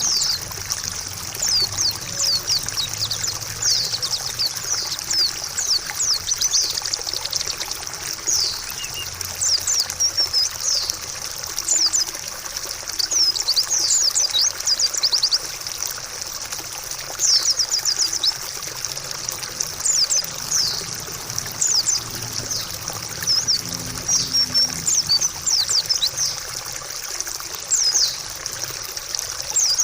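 White-eye (pleci) song: continuous high-pitched twittering of quick, falling notes, over the steady trickle of running water.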